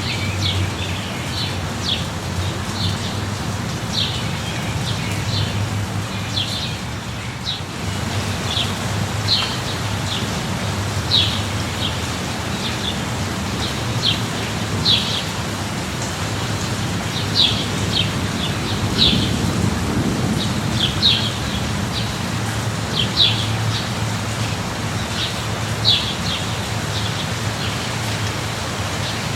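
Steady light rain falling, with a small bird chirping in short notes again and again through it. A low rumble underneath swells briefly about two-thirds of the way through.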